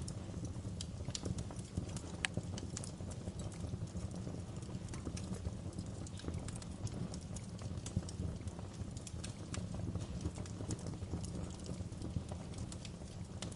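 Fire crackling: irregular sharp pops and ticks, a few louder than the rest, over a steady low rumble of flames.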